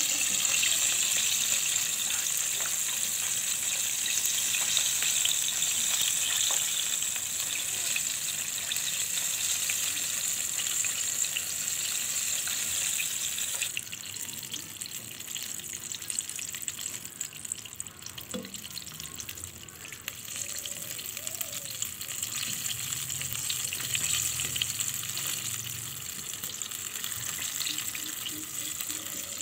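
Flour-coated chicken pieces sizzling in hot oil in a frying pan: a steady crackling hiss that drops in level about halfway through.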